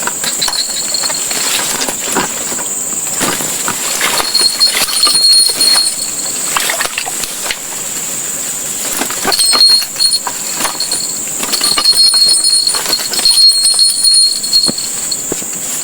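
Outdoor ambience of a steady high-pitched insect drone, joined several times by thin, high whistling tones that last about a second each, with scattered light clicks.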